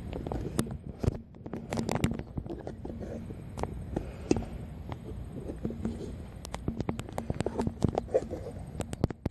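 Low rumble of movement and wind with many quick rattling knocks throughout, typical of a bicycle riding along a path.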